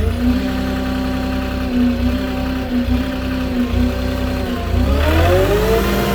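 Flatbed truck engine idling steadily just after starting, then revving up about five seconds in and holding at a higher speed.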